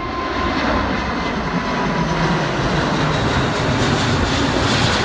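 Jet airliner's engines heard from the ground: a steady, loud noise with a faint high whine growing near the end.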